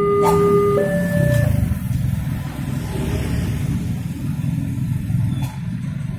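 Level-crossing warning alarm sounding its alternating low-high two-tone signal, each tone held about a second, cutting off about a second and a half in. Steady low rumble of road vehicles under and after it.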